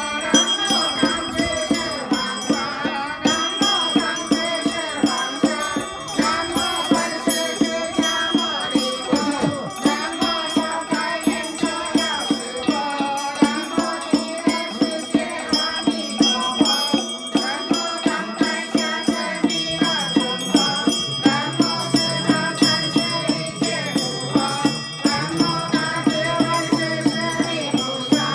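Group chanting of scripture in a sung, melodic style, kept in time by a steady beat of percussion strokes.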